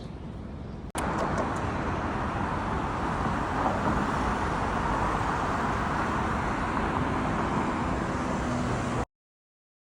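Steady outdoor background noise, an even wash without distinct events, starting abruptly about a second in and cutting off to silence near the end.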